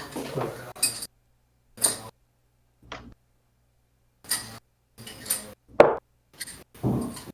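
Darts striking a dartboard during a throw: a series of short, sharp knocks and clinks, several spaced a second or so apart.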